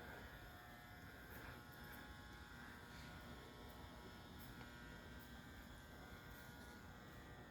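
Near silence: faint steady electrical hum of room tone.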